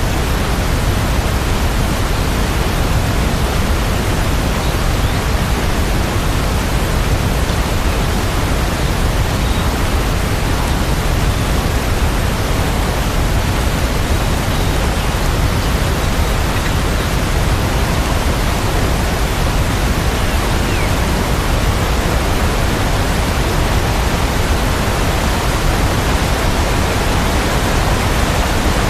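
Steady, dense rain noise: an even hiss with no single drops standing out, strongest in the low end.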